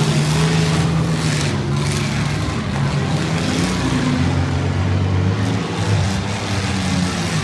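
Demolition derby cars' engines running and revving together, the pitch rising and falling as the drivers accelerate and back off.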